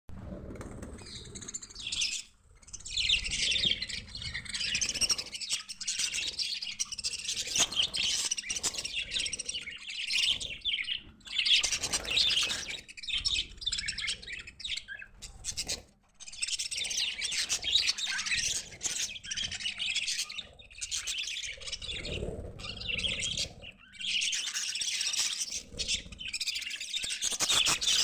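A flock of budgerigars chattering and chirping continuously, with short lulls, in high warbling twitters.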